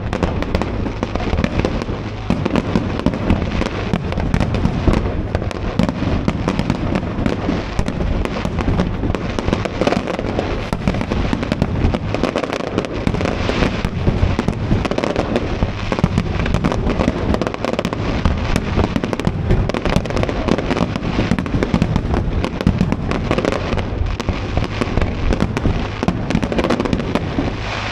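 Fireworks display: a dense, continuous barrage of sharp bangs and crackles.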